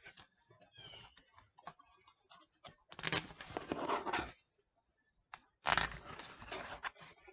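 Packaging being torn open by hand: two long tearing noises, the first about three seconds in and the second about six seconds in, with rustling and small clicks between.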